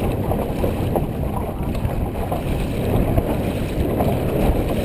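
Wind rumbling on the microphone over water noise aboard a dragon boat being paddled.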